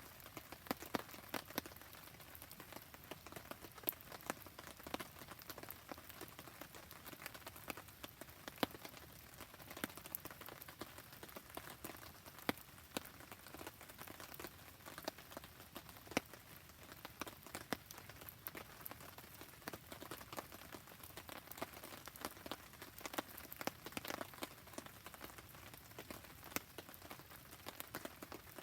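Rain falling as a steady hiss, with a campfire crackling: dense, irregular sharp pops and ticks over it.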